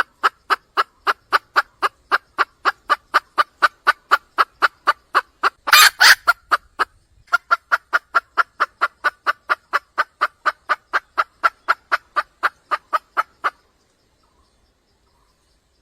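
Red junglefowl hen calling with a fast, even series of short clucks, about four a second. About six seconds in there is one louder, harsher note and a brief pause, then the clucking resumes and stops about two seconds before the end.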